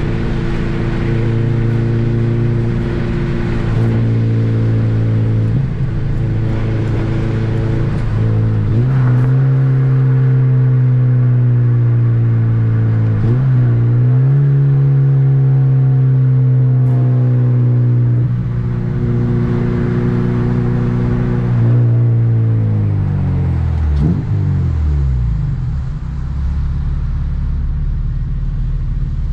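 2007 Honda Civic Si's 2.0-litre four-cylinder engine running under way at steady revs, with a few brief changes in pitch. About three-quarters of the way through, the revs fall away and it settles to a low, steady drone.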